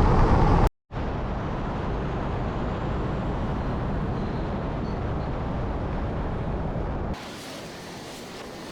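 Steady rush of wind and road noise from a motorbike on the move, with no clear engine note. It cuts out briefly just under a second in, and about seven seconds in drops to a quieter, hissier rush.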